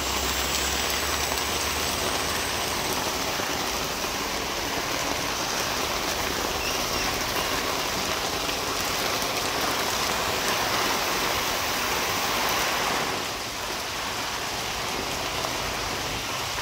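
Heavy tropical downpour: a steady hiss of rain pouring onto the road and roofs. A low hum stops about three seconds in.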